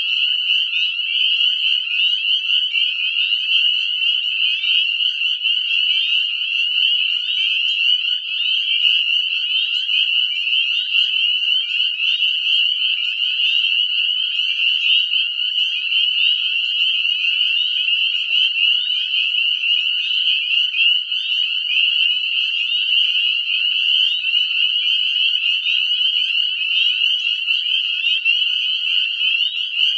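Dense breeding chorus of northern spring peepers: many males giving short, high, rising peeps that overlap into a loud, continuous ringing.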